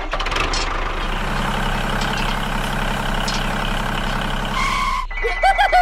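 A motor running steadily, then cutting off abruptly about five seconds in.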